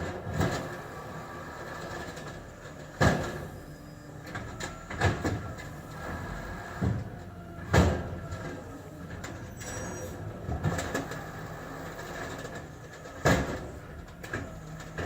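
Garbage truck engine running steadily, with a few sharp bangs of bins being emptied into it about every five seconds.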